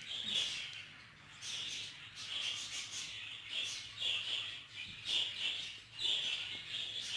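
Budgerigars chirping and chattering in short, repeated high-pitched bursts.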